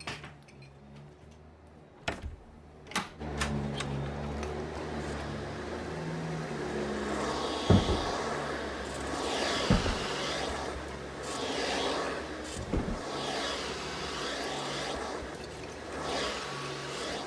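A car engine running steadily at low speed, with a hiss that swells and fades and a few sharp knocks.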